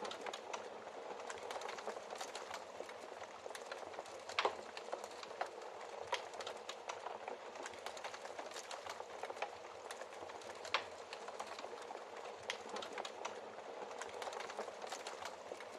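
Wood fire crackling in a fireplace: a steady hiss of burning with frequent small snaps, and two louder pops, one about four seconds in and one near eleven seconds.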